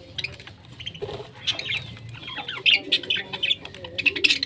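Pet parrots chirping and chattering in quick, overlapping short calls mixed with scratchy clicks. The calls grow busier after the first second or so.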